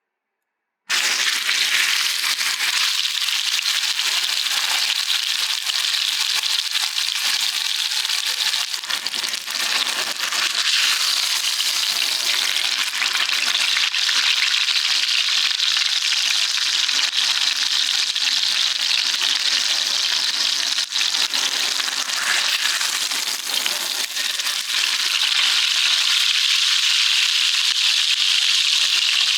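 Sirloin steak sizzling as it sears over an oak wood fire: a steady frying hiss with scattered small crackles, starting abruptly about a second in.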